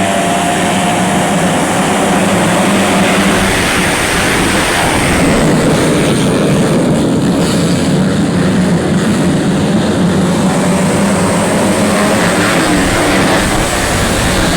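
Motocross bikes racing: several engines running at high revs together in a steady, continuous din, with the pitch of individual engines faintly rising and falling.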